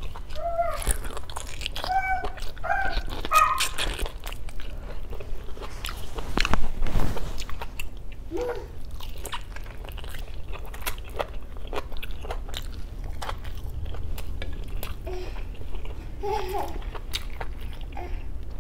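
Close-miked eating: biting into and chewing boiled pork hock, with many short mouth and lip clicks. The loudest stretch comes about six and a half seconds in.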